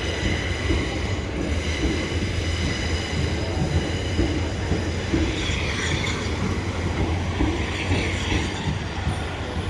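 Passenger train running on the track: a steady, continuous rumble of wheels and running gear with a faint high whine over it.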